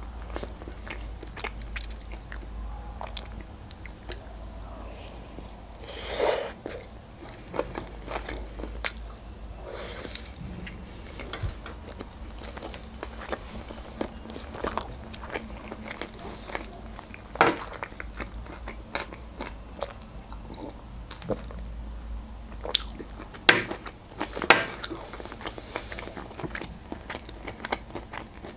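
Close-miked chewing of sushi rolls: many short, sharp wet mouth clicks, with a few louder bites and chews scattered through.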